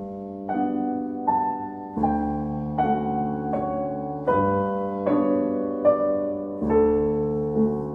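Calm solo piano music: a slow melody of struck notes over sustained bass chords that change about every two seconds.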